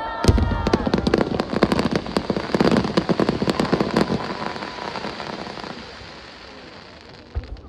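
Aerial fireworks crackling: a dense rapid run of sharp pops and crackles for about five seconds that then dies away, with a single low boom near the end.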